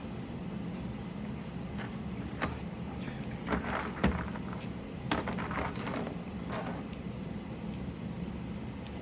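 Scattered, irregular plastic clicks and light clatter of mechanical keyboard parts being handled (keycaps and switches being pulled and fitted), over a steady low hum.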